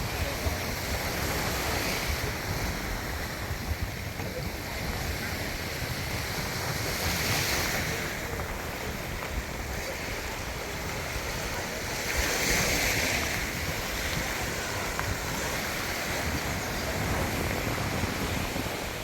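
Sea water washing and waves surging, with wind buffeting the microphone; two louder surges come about seven and twelve seconds in.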